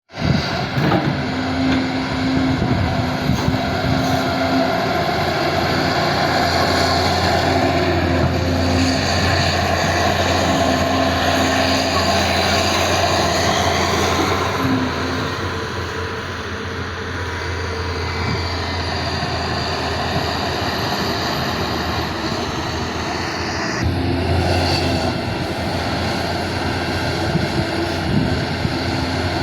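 Excavator engine running steadily with an even mechanical noise and a low hum, and an on-and-off higher drone over it. The sound changes abruptly about four-fifths of the way through.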